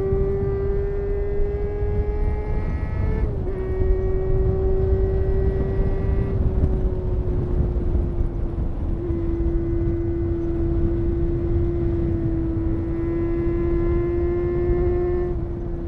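Honda CBR250RR MC22's 250 cc inline-four engine held at high revs while riding, giving a steady high-pitched note with a brief dip about three seconds in. A heavy low wind rumble runs underneath, and the note eases off slightly near the end.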